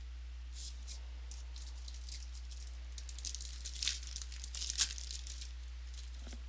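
Crinkling and tearing of a trading-card pack wrapper being opened by hand, in scattered crackly bursts that grow busiest and loudest about four to five seconds in. A steady low electrical hum runs underneath.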